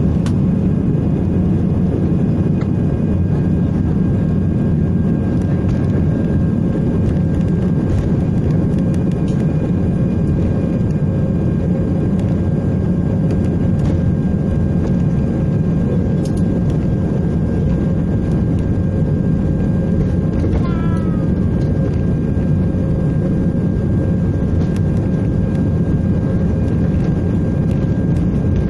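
Steady airliner cabin rumble from an Airbus A320: engine and air-system noise that holds level, with a few faint steady tones above it.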